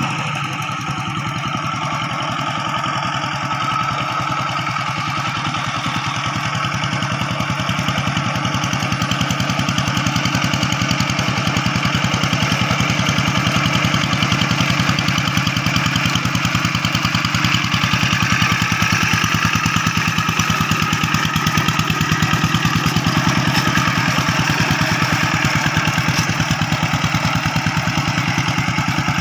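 Rice field tractor engine running steadily as it tills a paddy field, with an even, unbroken firing rhythm.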